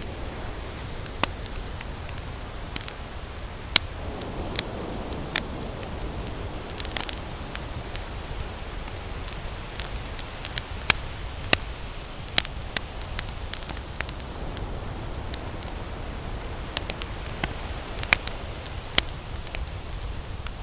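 Campfire crackling, with irregular sharp pops and snaps, some loud, over a steady low hiss.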